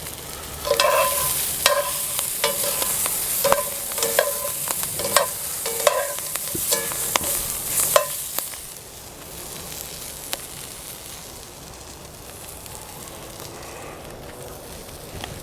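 Brussels sprouts sizzling in olive oil in a hot cast iron skillet, stirred with a utensil that knocks and scrapes against the pan about once or twice a second for the first eight seconds. After that only the quieter sizzle goes on.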